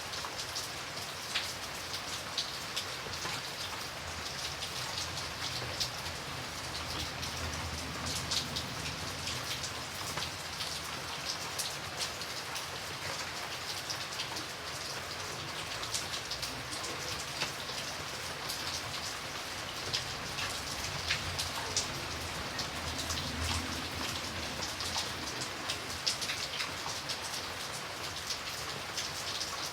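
Steady rain falling, with a continuous hiss and many close individual drops ticking on a surface, and a faint low rumble underneath at times.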